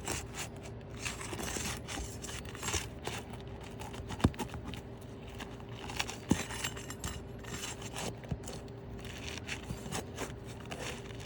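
Asphalt roof shingles being worked loose by hand: irregular scraping and crinkling with scattered small clicks, two sharper clicks about four and six seconds in, over a faint steady hum.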